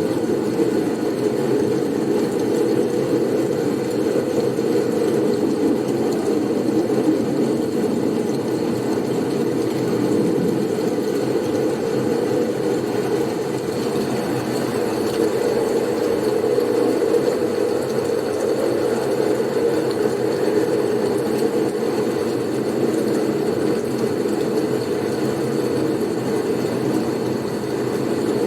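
Blizzard wind: a steady, low, even rush of noise with a faint thin high tone running above it.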